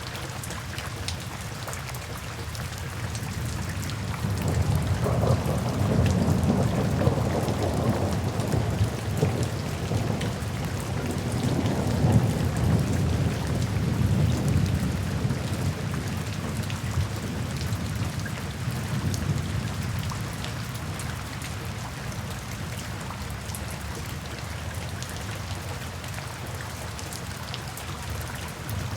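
Steady rain falling, with a long low roll of thunder that swells about four seconds in and fades away over the next fifteen seconds or so.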